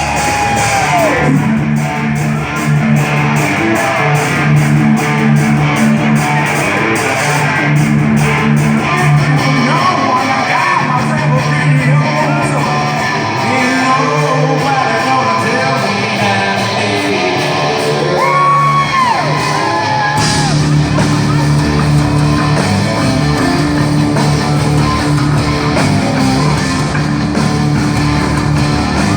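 Live hard rock band playing loud: electric guitar and bass with a singer's wailing vocals and shouts over the top.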